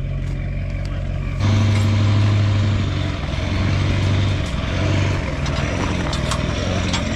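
A motor vehicle's engine running steadily, then louder about a second and a half in as it pulls away or drives on, with rattles and clicks over the engine note.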